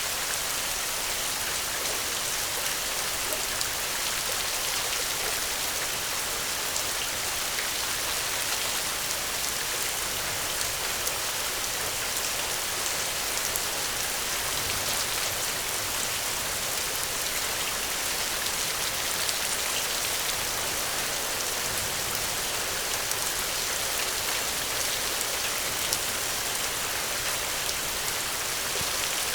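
Steady, heavy rain: a dense, even hiss scattered with small sharp ticks of drops.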